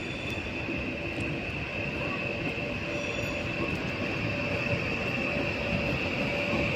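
A train running through the station: a steady rumble with a high, steady whine over it, slowly growing louder.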